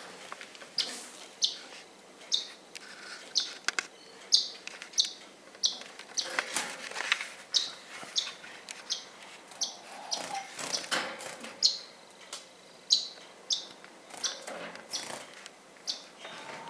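Pet bird chirping: a long series of short, high chirps, roughly one or two a second, with scattered rustling noises between them.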